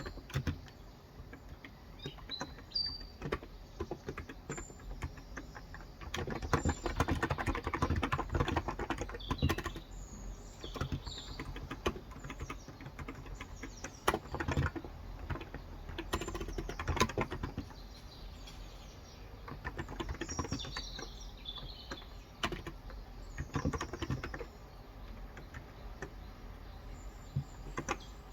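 Typing on a Cox Endeavour contactless (capacitive) 35 g tenkeyless keyboard: runs of quick keystrokes with short pauses between them. Birds chirp at intervals in the background.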